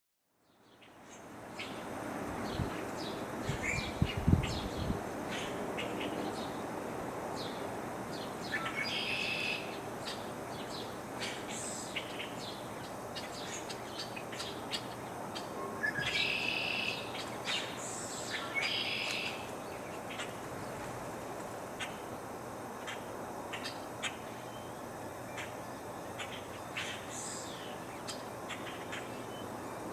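Wild birds chirping and calling over a steady breeze: many short high chirps, with a few longer, buzzier calls scattered through. A few low thumps about three to four seconds in.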